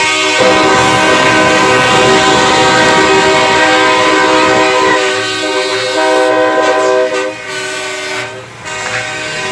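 A truck's multi-chime train-style air horn blowing a chord, one long blast followed by a few shorter blasts.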